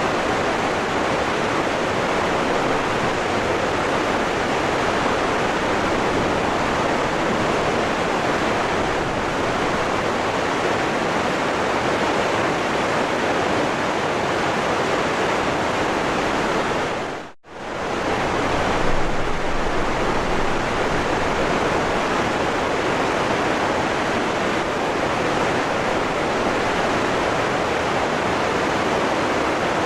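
Waterfall rushing: a steady, even roar of falling water. It briefly dips almost to nothing about halfway through, then comes straight back.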